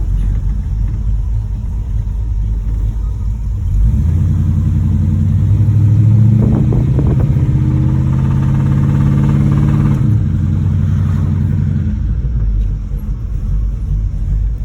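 1986 Monte Carlo SS's V8 engine running while driving, rising in pitch under acceleration from about four seconds in, then easing off around ten seconds and settling back to a steady low drone. The engine has a rod knock: the bottom end is knocking.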